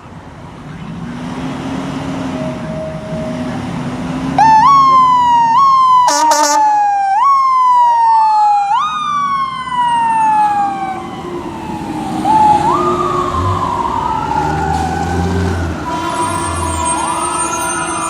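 Fire apparatus responding: a heavy truck engine pulls away, then a loud electronic siren starts about four seconds in, sweeping quickly up and sliding slowly down, with a brief horn-like blast just after. A slower siren rising and falling in long sweeps carries on through the rest.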